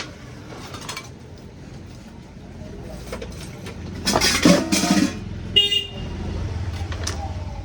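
Road traffic: a brief horn toot about five and a half seconds in, after a louder noisy passage, then a vehicle engine's low rumble.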